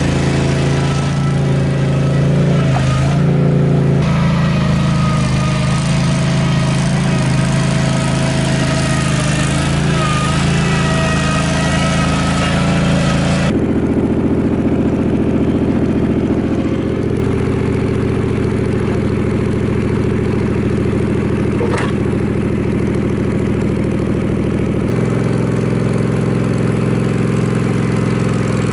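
Toro Dingo compact utility loader's engine running under load, with a wavering whine above it. About halfway through the higher sound drops away suddenly, leaving a steadier, lower running note, which shifts again near the end.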